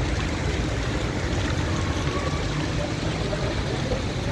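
Steady rush of running rainwater, with a low rumble of traffic underneath.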